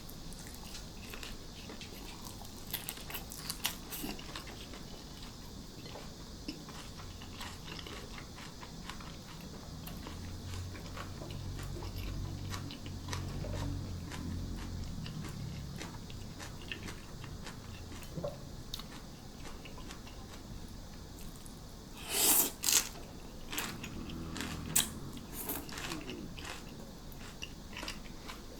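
A person chewing and crunching food close to the microphone, with small crisp clicks throughout and a few loud, sharp crunches near the end.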